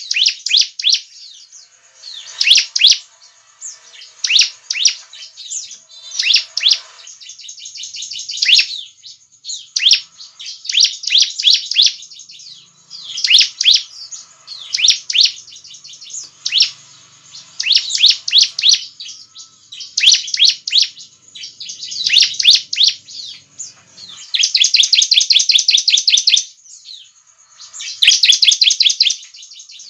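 Bar-winged prinia (ciblek) singing: repeated short bursts of rapid, high chirping notes about every second or two, giving way near the end to longer, faster trills.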